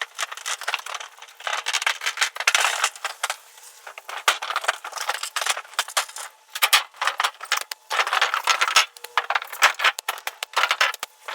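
Microfiber towel scrubbing glue residue off a metal roof panel: irregular, scratchy rubbing strokes with light rattling from the sheet metal.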